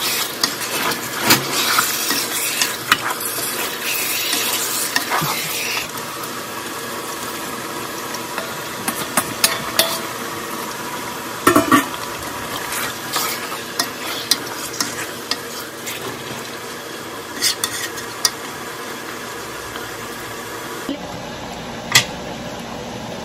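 Marinated chicken sizzling in a hot stockpot while a wooden spoon stirs it, with scattered clicks and knocks of the spoon against the pot. The sizzle is loudest for the first few seconds, then settles to a quieter, steady hiss.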